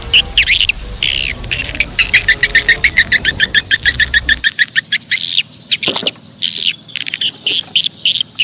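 Birds chirping and calling over and over, with a fast run of short, even chirps in the middle.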